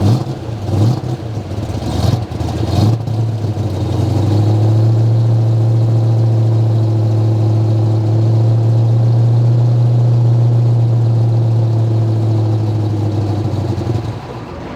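1970 Ford Mustang Boss 429's 429 cubic-inch V8 being revved: four quick throttle blips, then held at a steady raised speed for about ten seconds before dropping back toward idle near the end.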